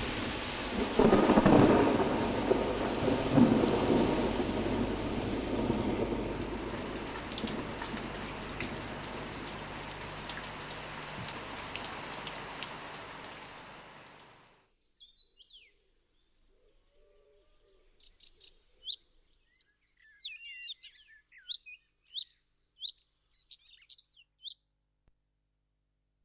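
Thunder rumbling over heavy rain, loudest in the first few seconds, then dying away and stopping about halfway through. After a short pause come scattered short bird chirps and calls.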